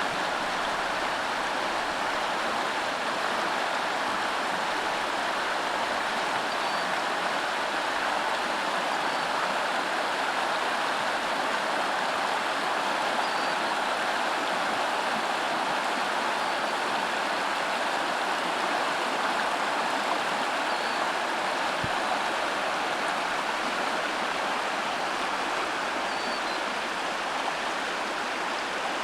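Rain-swollen creek running over small rapids and mini waterfalls: a steady, even rush of water.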